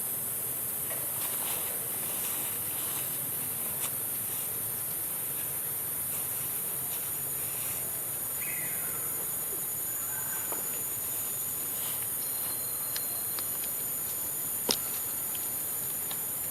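Steady high-pitched hiss, with faint scattered chirps and two sharp clicks, one about four seconds in and one near the end.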